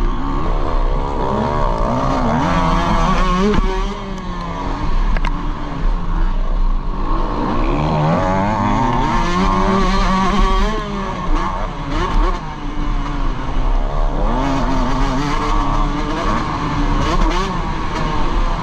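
Dirt bike engine revving up and down as the rider accelerates and backs off through the turns, its pitch rising and falling again and again. The sound is heard from a helmet-mounted camera, with wind rumbling on the microphone.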